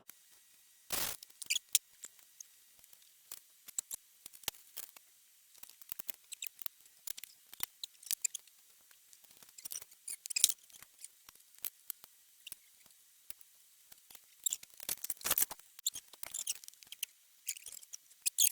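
Irregular light clicks, ticks and scrapes of hand tools and small engine parts being handled during spark-plug work, with a louder knock about a second in.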